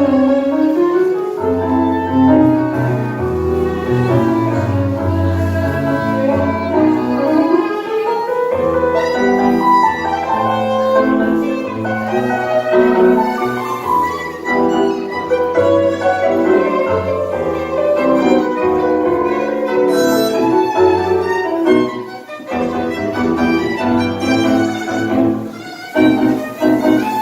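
Live tango music from a small ensemble: a violin carries the melody with sliding phrases over piano and a walking double bass.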